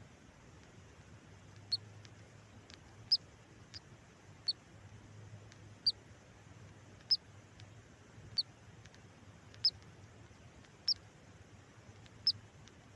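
Newly hatched canary chick peeping inside an egg incubator: short, high single peeps, about one every second and a quarter, over the incubator's faint steady low hum.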